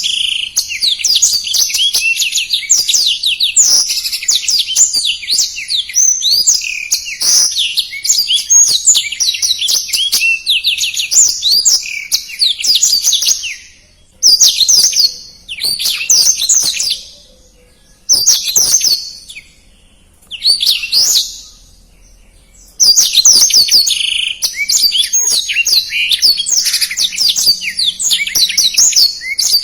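Blackthroat (black-throated canary) singing a fast, dense song of rapid high chirps and trills. About halfway through, the song breaks into short phrases with pauses between them, then runs on continuously again for the last quarter.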